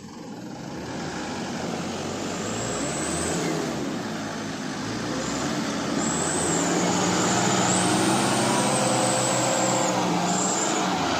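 Diesel truck engine working hard under heavy load while a loaded truck is pulled up a steep slope by cable, its loudness building over the first couple of seconds and then holding. A high whine above the engine rises and falls throughout.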